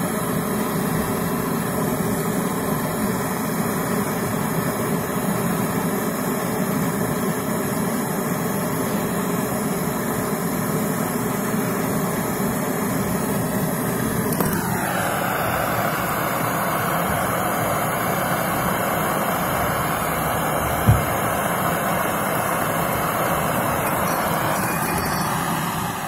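Gas brazing torch burning steadily, heating a refrigerator compressor's pipe joint so it can be unsoldered. The even rushing noise shifts in tone about halfway through, and there is a single light knock a few seconds later.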